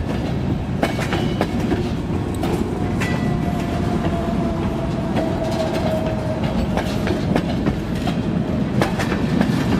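Freight cars rolling past, their wheels clicking over rail joints over a steady rumble. A faint squeal, falling slightly in pitch, runs from about two and a half seconds in to about seven seconds.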